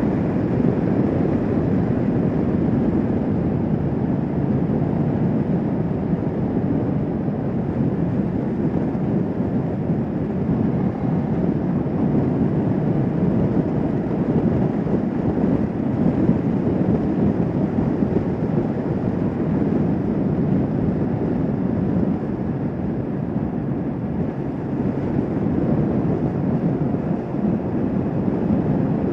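Motorcycle riding at a steady cruising speed: the engine and the rush of wind over the microphone blend into a constant low roar, with no change in speed.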